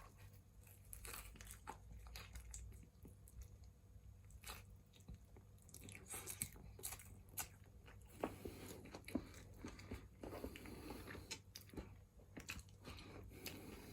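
A person biting into and chewing a chicken burger crumbed with crushed Twisties: faint, scattered crunches and mouth sounds.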